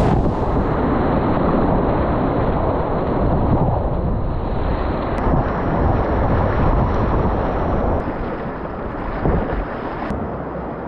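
Loud, steady rush of river water with wind buffeting the action-camera microphone, easing a little near the end.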